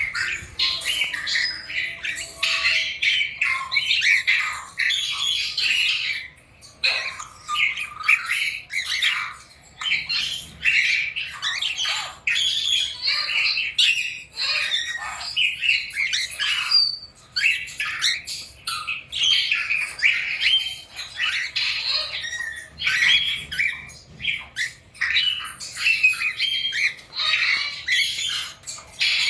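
A group of small pet parrots squawking and chirping without a break, many short calls overlapping.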